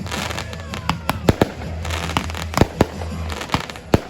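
Close-range fireworks going off: an irregular run of sharp bangs, several close together at times, with crackling in between.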